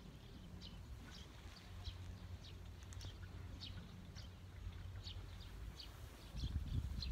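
Small birds chirping outdoors, short high chirps about two a second. A low rumble on the microphone grows louder about six seconds in.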